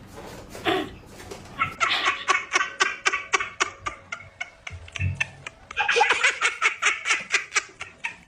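A person laughing in two long runs of quick "ha" bursts, about five a second, with a short break in the middle.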